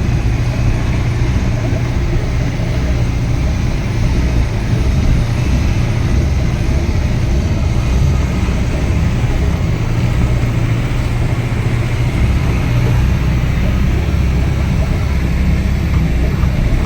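Heavy vehicle engine running steadily at a constant speed, a low, even drone with no revving.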